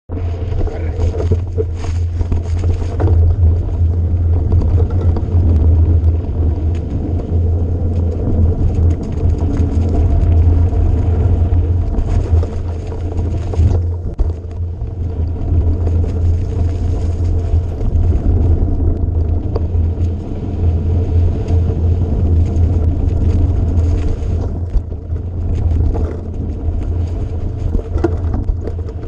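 Steady low rumble of a motor vehicle on the move, with rough noise over it that rises and falls.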